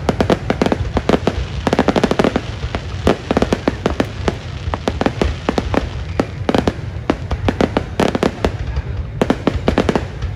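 Fireworks display going off: a continuous barrage of sharp bangs and pops in quick succession, bunched in dense clusters, over a steady low rumble.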